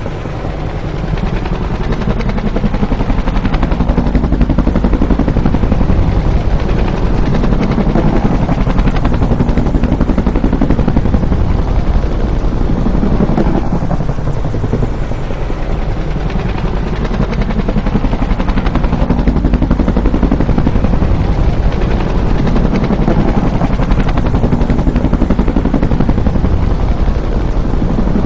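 Bell UH-1 "Huey" helicopter flying by, its rotor beating rapidly over the turbine. The sound stays loud throughout while its pitch swings down and back up several times.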